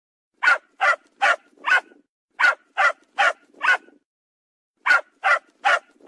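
A dog barking in three runs of about four quick barks each, with a short pause between runs.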